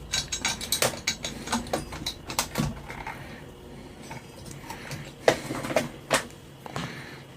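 Scattered small clicks and taps of hand tools and metal parts being handled on an amplifier chassis, with a couple of sharper knocks about five and six seconds in.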